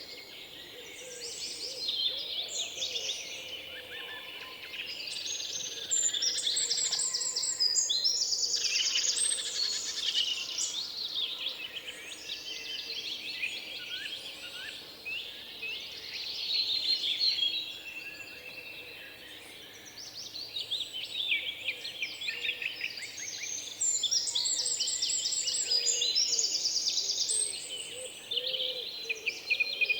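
Several songbirds singing and chirping at once in a dense, overlapping chorus, with fast high trills that swell twice.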